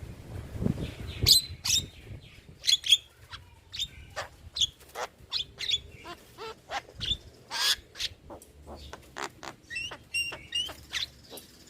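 Javan myna (jalak kebo) singing: a rapid, jumbled string of short sharp chirps, clicks and whistles, several a second, with a few brief gliding whistles near the end.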